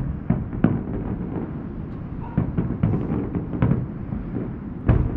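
Aerial fireworks bursting: a string of about a dozen sharp bangs at uneven intervals, the loudest right at the start and near the end.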